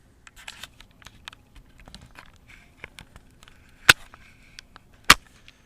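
Small parts and plastic pieces being handled on a workbench: light clicks and rustling throughout, with two sharp knocks, the first about four seconds in and the second a little over a second later.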